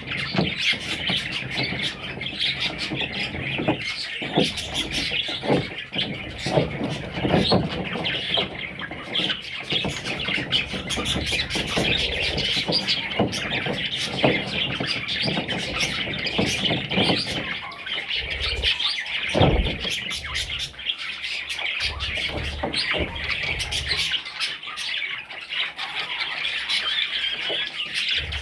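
Budgerigars chirping and chattering continuously, with squawks mixed in. A few low thumps come about two-thirds of the way through.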